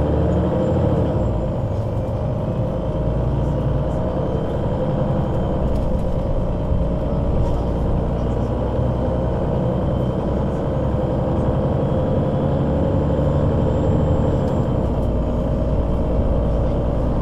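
Engine and Voith automatic gearbox of a 2005 Solaris Urbino 12 III city bus running steadily under way, with a low rumble and a slight drift in pitch.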